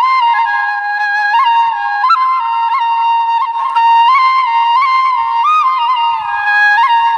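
Background music: a solo flute playing a melody with quick grace notes.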